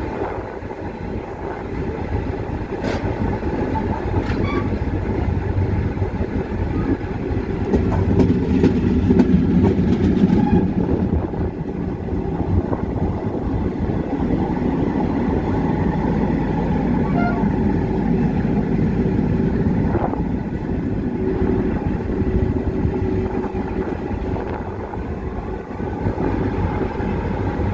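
Riding aboard the Vulkan-Express narrow-gauge train: a steady rumble of wheels on the rails, swelling about eight seconds in. Faint thin squeals of the wheels rise over it now and then, with a few short clicks.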